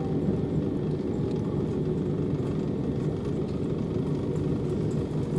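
Steady low running noise of a Class 377 Electrostar electric multiple unit in motion, heard from inside the passenger carriage.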